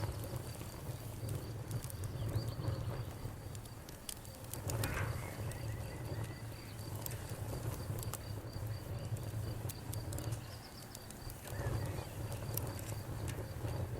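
Wood fire crackling with many sharp pops over a low, steady rumble of the flames, with a cricket trilling at a high pitch behind it.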